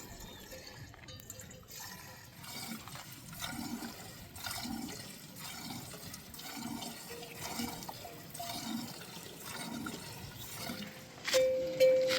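Running and splashing water, with a soft rhythmic pulse about once a second. Near the end a loud held tone sounds briefly.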